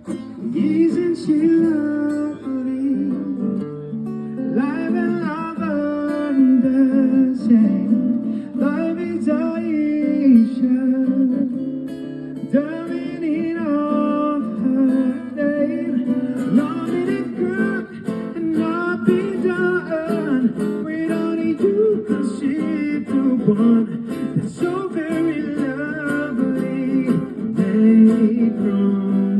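A singer accompanied by an acoustic guitar: a voice sings a melody over strummed and plucked guitar chords.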